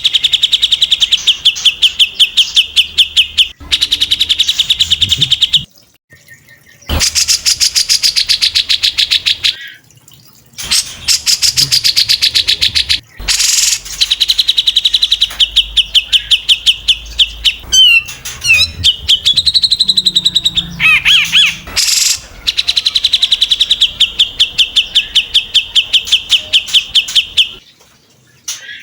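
Songbird 'tembakan' song: long rapid-fire trains of sharp repeated notes, about ten a second, in several bouts broken by abrupt short pauses, with a few sweeping whistled notes about two-thirds of the way through.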